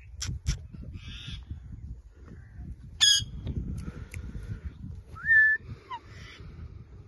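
Indian ringneck parrot calling: a loud harsh screech about three seconds in and a short rising whistle, held briefly, about five seconds in, with quieter scratchy chatter between.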